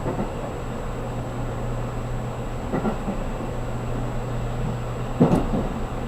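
Running noise heard inside a JR Kyushu 783 series limited express car: a steady low hum and rumble, with two short knocks, one about three seconds in and a louder one near the end.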